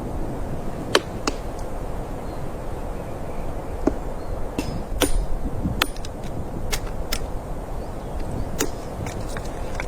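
Steady low rumbling noise with irregular sharp clicks and snaps scattered through it, roughly a dozen, the strongest about five seconds in.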